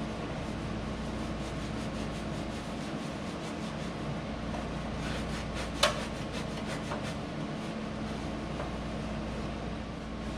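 Rags and a Scotch-Brite pad scrubbing and wiping engine-bay metal, with a few faint knocks and one sharp knock about six seconds in, over a steady hum.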